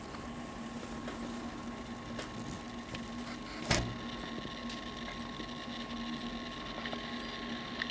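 Steady electrical hum and hiss, two constant tones, one low and one higher, with a single sharp click a little under four seconds in.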